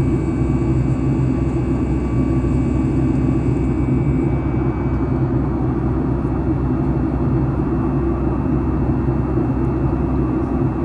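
Steady jet cabin noise of a Boeing 737 MAX 9 in flight, a continuous low rush from the engines and airflow. Faint high steady tones in it fade out about halfway through.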